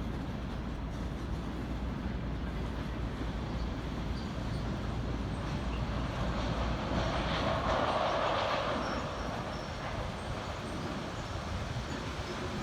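Electric-hauled train running past on the rails, a steady low rumble with wheel-on-rail noise that rises to its loudest about eight seconds in, then eases off.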